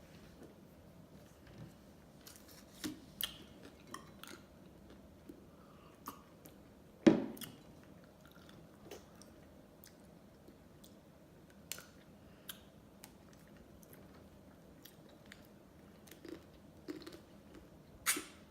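Close-up mouth sounds of eating ice cream: scattered wet smacks and clicks of chewing and biting. A single loud knock comes about seven seconds in, and a sharp click comes near the end.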